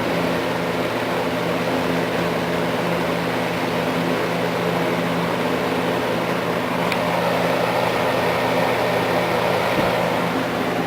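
Eskimo two-speed box fan running steadily on high speed: a rush of air from the blades over a steady motor hum.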